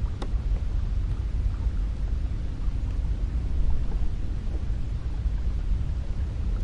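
Cold wind sound effect: a steady, deep rumble of wind.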